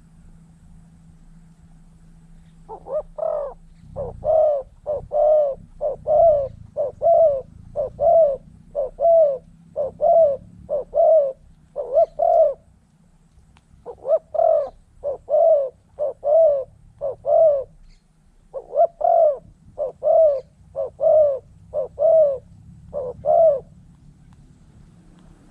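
Spotted dove cooing: short coos about two a second in long runs, with two brief pauses.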